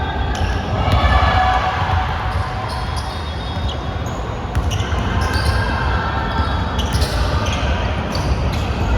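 Basketball being dribbled and bounced on a gym court during a game, with scattered short knocks and players' voices calling out.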